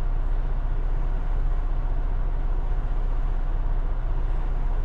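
Steady low drone of a semi-truck's diesel engine heard from inside the cab, even and unbroken.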